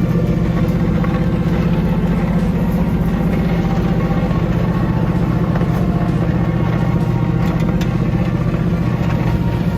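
Off-road vehicle engine running steadily under load while towing a burnt pickup out through snow.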